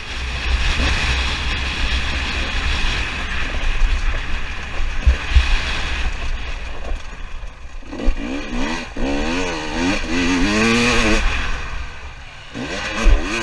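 KTM 300 TPI two-stroke dirt bike being ridden, the engine pitch rising and falling quickly as the throttle is worked, with a steady low wind rumble on the microphone.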